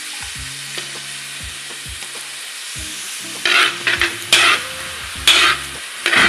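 Onions, garlic and ginger sizzling steadily in hot oil in a pan. From about halfway through, a spatula stirs them, scraping against the pan in several loud strokes.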